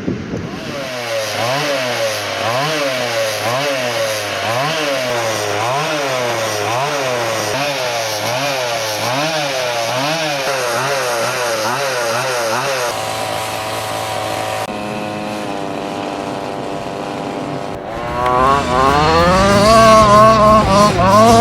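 Small two-stroke petrol engine of a 1/5 scale RC truck revving up and down rhythmically, about three blips every two seconds, then holding steadier, then revving higher and louder near the end.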